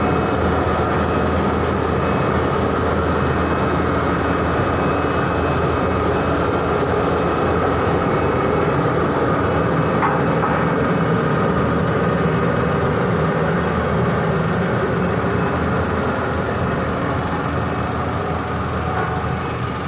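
Heavy vehicle engine running steadily, with the rumble of traffic, easing slightly near the end.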